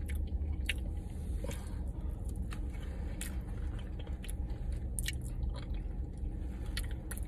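Close-miked chewing of a mouthful of food with avocado, with scattered wet mouth clicks and squishes over a steady low hum.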